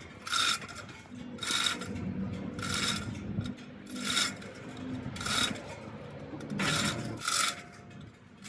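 Rhythmic scraping strokes of a hand tool on metal, about one a second, with a low hum underneath through the middle of the stretch.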